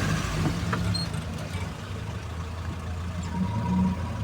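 Safari vehicle's engine running steadily as it drives along, a low even hum. A faint thin high tone joins near the end.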